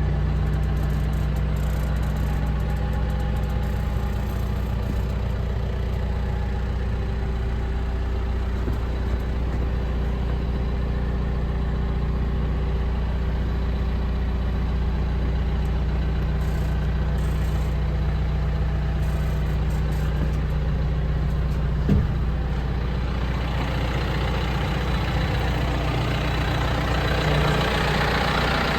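John Deere 310SL backhoe loader's four-cylinder diesel engine idling steadily. There is a single sharp knock about two-thirds of the way through, and a hiss grows louder near the end.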